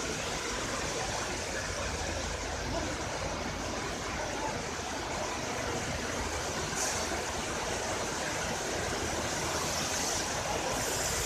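Heavy rain pouring steadily, with a WCAM3A electric locomotive rolling slowly alongside at walking pace.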